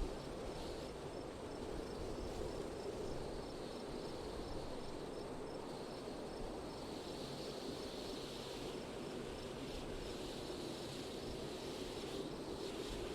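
Steady outdoor wind noise, with an insect chirping at a regular beat, a couple of chirps a second, that fades out about halfway through.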